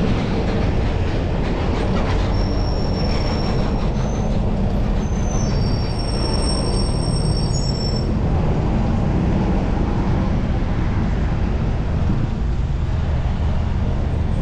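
Steady low rumble of wind and road noise on a moving bicycle's camera, with several high, thin squealing tones that come and go between about two and eight seconds in.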